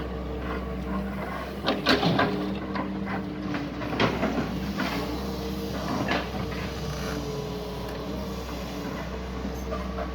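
Doosan DX140 excavator's diesel engine running steadily, with sharp knocks and clatters about two, four and six seconds in.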